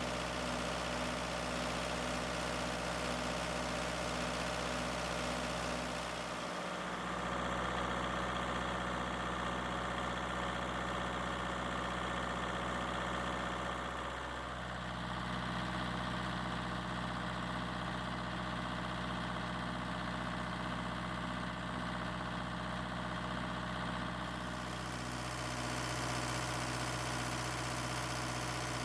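Kubota V2203 four-cylinder diesel engine running steadily, its note shifting a few times as the engine speed changes: about seven seconds in, around fifteen seconds and again near twenty-five seconds.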